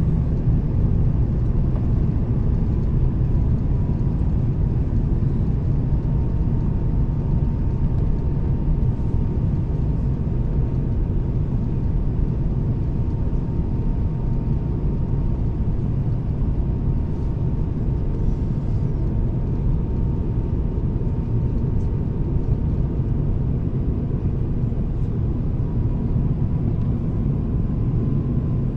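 Steady cabin noise of an Airbus A350-1000 airliner: an even, deep rumble of engines and airflow with a faint steady whine above it.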